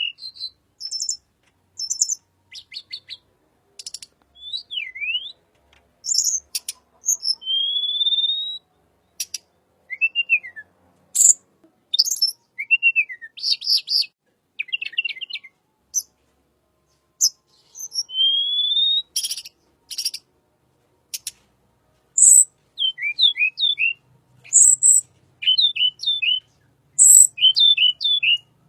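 A tledekan bird calling in a busy, varied series of short high notes: thin chips and ticks, a few rising whistles, and, in the last few seconds, quick runs of three or four hooked notes.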